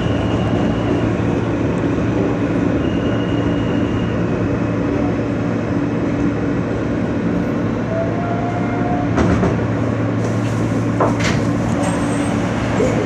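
R160 subway car running between stations, heard from inside: a steady rumble of wheels on rail under an even motor hum, with a few short clicks from the track near the end.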